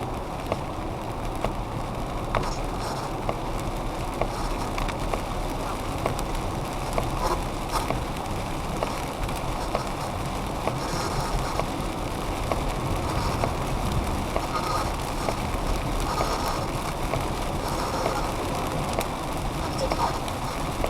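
Radio noise from a PSB-11 spirit box sweeping FM stations on both channels, chopped by its noise gates into steady crackling static with scattered clicks and brief fragments. It plays over car cabin noise while driving in rain.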